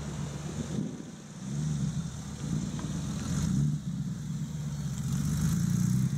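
A classic car's engine driving past, its pitch rising and falling as it accelerates. It dips about a second in, then grows louder.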